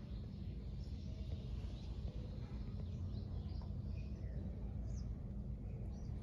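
Steady low rumble with a few faint bird chirps now and then.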